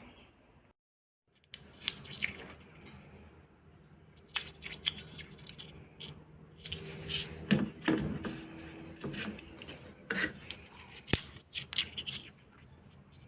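Metal tools and parts clinking and knocking at irregular intervals as they are handled, with one sharp knock near the end standing out.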